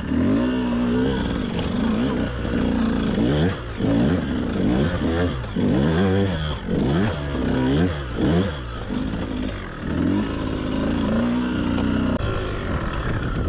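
KTM enduro motorcycle engine revving up and down over and over in short throttle blips, heard from the rider's seat, as the bike is ridden slowly over a row of logs.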